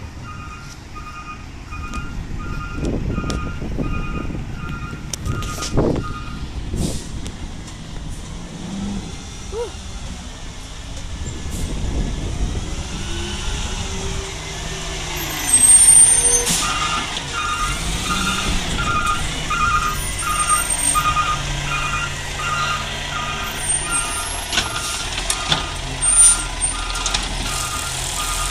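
Garbage truck's reversing alarm beeping steadily, about one and a half beeps a second; it stops after about six seconds and starts again for the last third. The diesel engine runs underneath throughout, its pitch rising and falling in the middle, and a loud air-brake hiss comes about halfway through.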